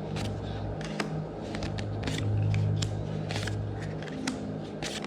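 Magic: The Gathering trading cards being flipped through by hand: irregular crisp snaps and slides of card stock, a few a second, over a low steady hum.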